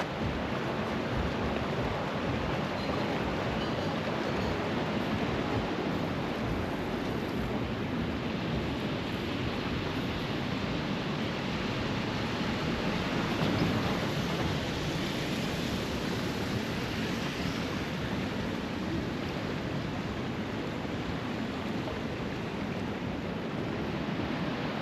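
Fast-flowing river water rushing past, a steady even rush with no breaks.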